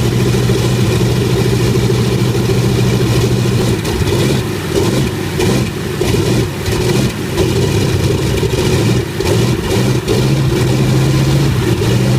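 An engine running with a steady hum, then its note wavering and dipping unevenly from about four seconds in.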